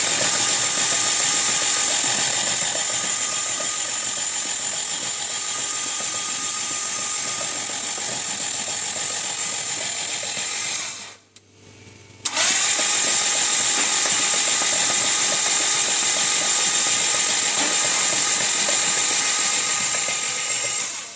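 A motor-driven machine whining steadily. Just past halfway it cuts off for about a second, then starts again abruptly and runs on.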